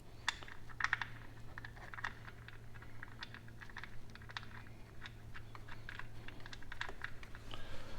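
Irregular small clicks and light metallic ticks of a motorcycle oil drain plug with a new crush ring being threaded back into the oil pan by hand.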